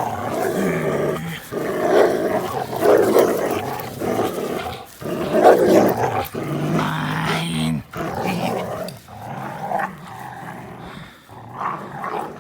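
Two dogs, an American pit bull terrier and a Belgian Malinois cross, play-fighting, growling in rough bursts. The growling eases off and gets quieter in the last few seconds.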